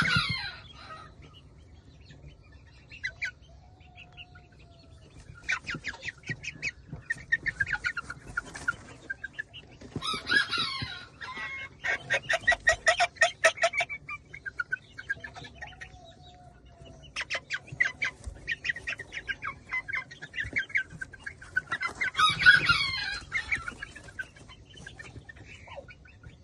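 Aseel chickens clucking in rapid runs of short calls, with three louder, harsher calls spread through: one at the start, one about ten seconds in and one near the end.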